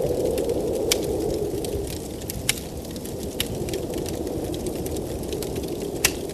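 Blizzard wind blowing in a steady low rush that eases slightly after a couple of seconds, over a wood fire crackling with scattered sharp pops, the loudest near the end.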